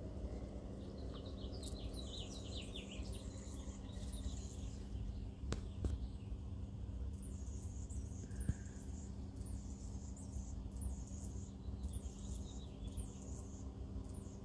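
Small birds chirping in short repeated phrases over a steady low hum, with two brief clicks about a third and about halfway through.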